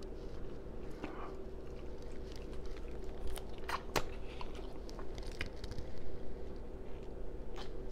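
Close-miked chewing and mouth smacking on crispy fried fish, with scattered crunches and two sharp crunches near the middle.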